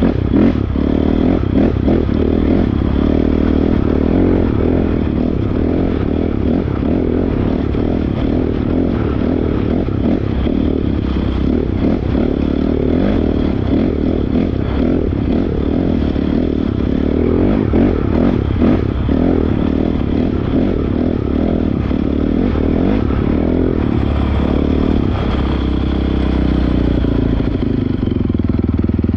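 Honda CRF450R dirt bike's single-cylinder four-stroke engine running as the bike is ridden, with clattering and scraping over rough ground. The engine note changes near the end.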